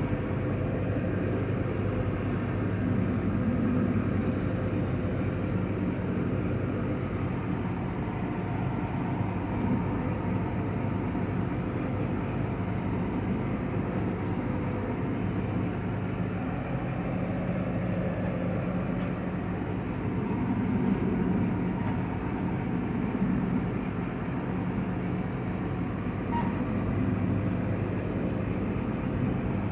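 Combine harvester running steadily while harvesting soybeans: a constant engine drone with a low hum and no break in level.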